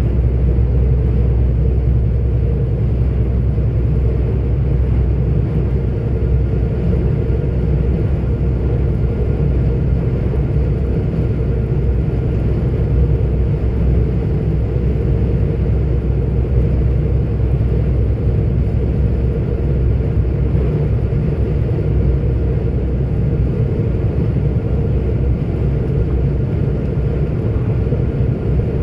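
44-ton articulated truck driving at a steady speed: a constant low engine drone and road rumble, with a faint steady whine above it.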